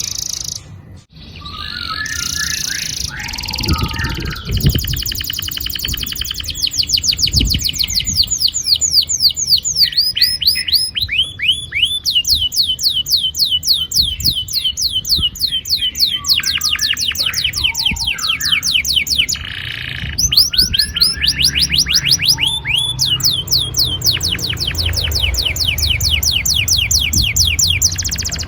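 Domestic canary singing long rolling trills. Each trill is a fast, even run of repeated down-slurred notes, broken by a short pause about two-thirds of the way through, after shorter twittering phrases at the start.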